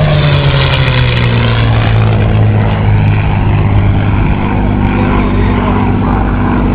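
P-51 Mustang's Packard Merlin V-12 engine and propeller passing by, its pitch dropping over the first two seconds, then a steady loud drone as it goes away.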